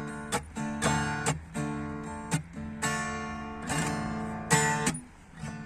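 Guitar strumming chords as the song's closing instrumental, ending on a last strum about four and a half seconds in that rings briefly and stops.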